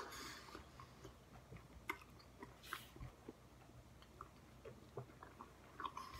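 Faint wet chewing and mouth clicks from a huge mouthful of shredded bubblegum, with scattered small smacks.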